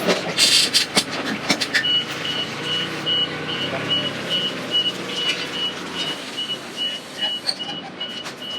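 Rattling and knocks, then from about two seconds in a high warning beeper starts, sounding about one and a half times a second over a low machine rumble.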